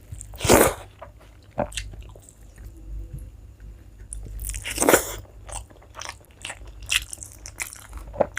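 A person biting into crunchy food and chewing close to the microphone. There are a few loud crunching bites, the loudest about half a second in and again near five seconds, with quieter chewing between.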